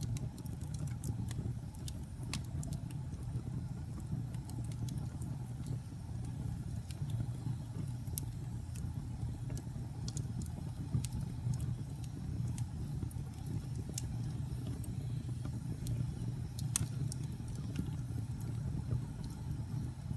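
Wood fire burning with a steady low rumble of flames and irregular sharp crackles and pops, one louder pop near the end.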